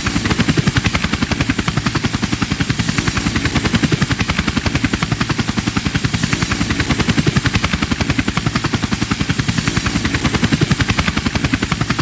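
Helicopter rotor blades chopping in a fast, even beat, with a steady high whine above it.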